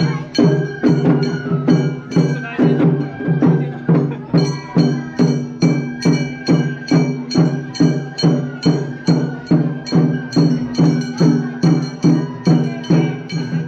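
Japanese festival float music (hayashi) with small hand-held gongs struck in a fast, even rhythm of about two and a half strikes a second, each strike ringing on.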